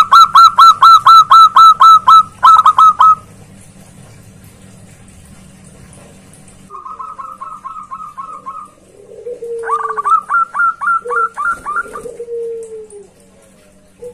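Zebra doves (perkutut) cooing. A loud, fast run of repeated notes lasts about three seconds, with a brief break. A softer run follows a few seconds later, then another run overlapping lower, drawn-out falling coos near the end.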